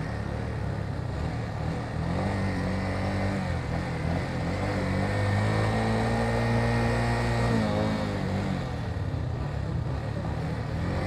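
Motorcycle engine running under way, its note rising and falling with the throttle and dropping off about eight seconds in, over steady wind and road noise.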